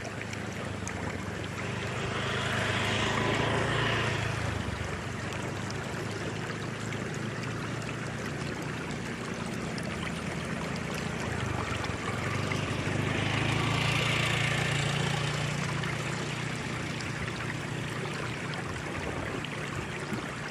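Flowing water with a steady rush, under a low hum that swells twice.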